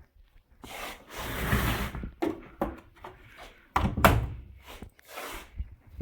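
A few sharp knocks and thuds, the loudest about four seconds in, between stretches of rubbing or rustling noise: handling sounds.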